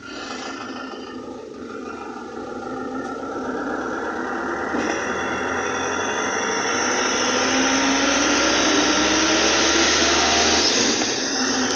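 Motor vehicle engine and road noise growing steadily louder, the engine pitch slowly rising as it speeds up, then easing slightly near the end.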